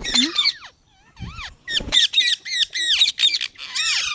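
Indian ringneck parakeet calling in a quick run of short, sharp squawks, each bending up and down in pitch.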